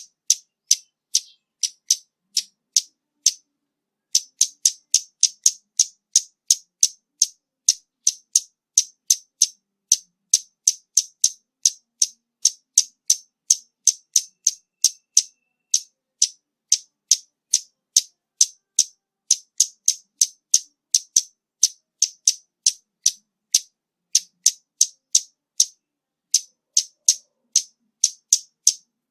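Scarlet-backed flowerpecker giving a long series of short, sharp, high-pitched call notes, about two to three a second, with a couple of brief pauses. The recording is noise-reduced, so nothing is heard between the notes.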